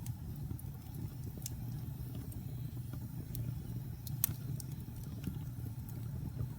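Wood fire burning in a fireplace: a steady low rumble with scattered sharp crackles and pops from the logs, the loudest pop about four seconds in.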